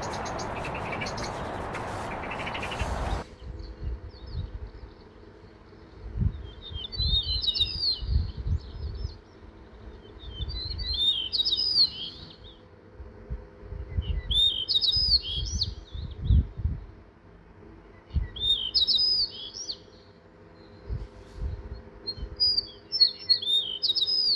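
A songbird singing the same short, high, warbled phrase five times, one about every four seconds. The first three seconds hold a loud, even rush of noise that cuts off suddenly, and low rumbles come and go beneath the song.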